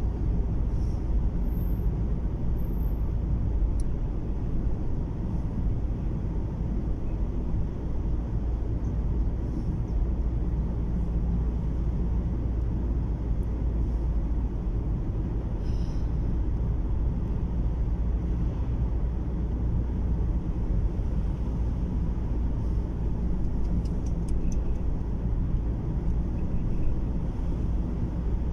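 Steady low rumble of a car driving, as heard inside the cabin: road and engine noise with no change in pace.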